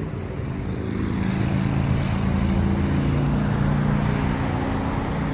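A steady motor drone with a low, even hum.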